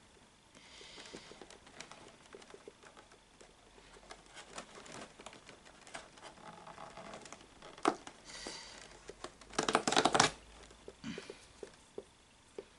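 Cardboard and paper of an advent calendar crinkling and tearing as a numbered door is opened by hand, in scattered rustles and clicks with a louder burst of crinkling about ten seconds in.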